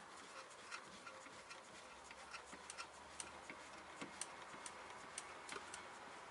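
Faint, irregular light clicks and taps of hand work on a car's rear parking-brake assembly, coming more often in the second half.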